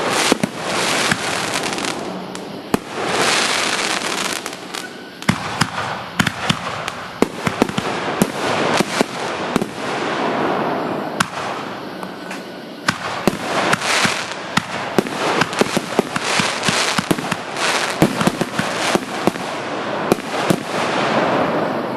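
Fireworks going off: a continuous hissing crackle punctuated by many sharp bangs.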